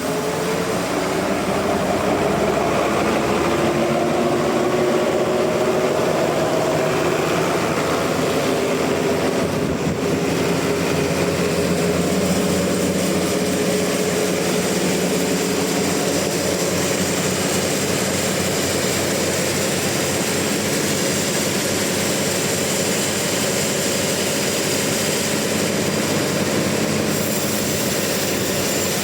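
Sawmill saw running steadily through a large trembesi (rain tree) log, a loud continuous mechanical drone with a whine that rises slightly in pitch over the first several seconds.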